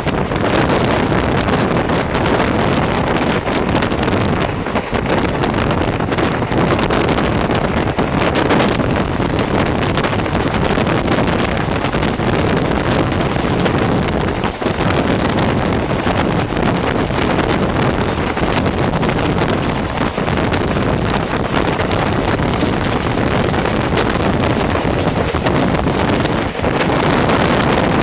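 Steady rush of wind buffeting the microphone over the running noise of a passenger train moving at speed.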